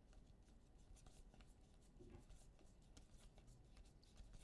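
Near silence with faint handling of trading cards: soft scattered clicks and rustles as cards are flipped through.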